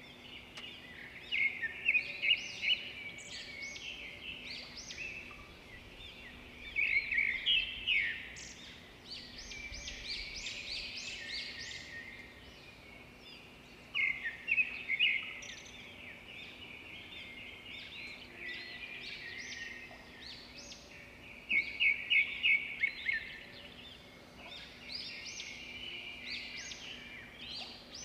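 Several birds chirping and calling, with loud clusters of rapid high chirps every several seconds and quieter calls in between.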